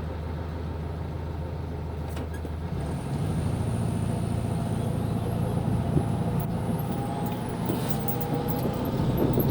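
1970 VW Beetle's air-cooled flat-four engine idling, then pulling away in low gear about three seconds in, the engine note rising and getting louder.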